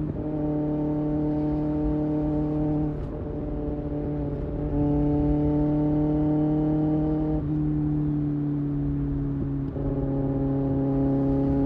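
2024 Kawasaki ZX-6R's 636 cc inline-four engine pulling at steady highway revs. Its note dips briefly about three seconds in and again near ten seconds, then settles back.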